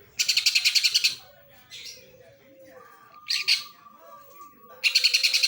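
Cucak ijo (green leafbird) singing in loud bursts of rapid, evenly pulsed chattering that mimic house-sparrow ('burung gereja') chirps. The first burst lasts about a second, and shorter bursts follow near the middle and the end.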